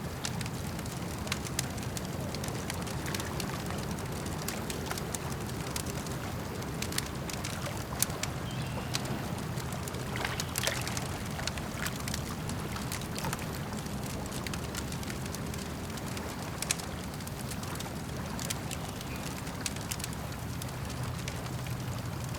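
Campfire crackling with scattered sharp pops, a few louder ones standing out, over a steady low wash of lake water lapping.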